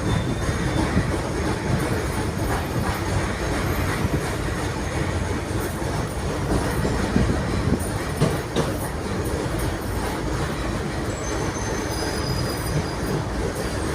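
Ust-Katav 71-631 tram running along the track: a steady rumble of wheels on rails with a few knocks from rail joints in the middle and faint thin wheel squeals near the end.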